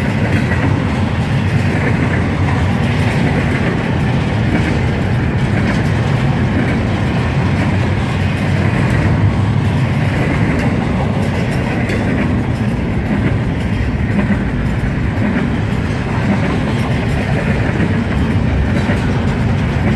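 Double-stack container cars of a freight train rolling past at about 30 km/h: the steady, even running noise of steel wheels on the rails.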